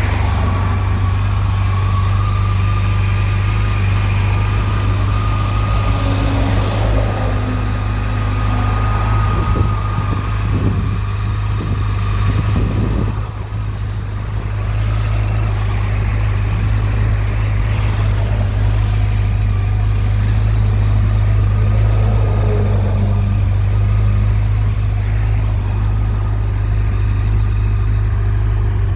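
Yamaha motorcycle engine idling steadily, with a brief dip in level about halfway through.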